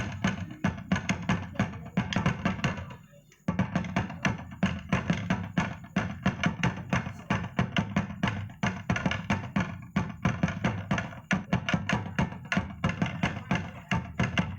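Traditional dance accompaniment music with fast, even drumming. It breaks off for about half a second roughly three seconds in, then picks up again.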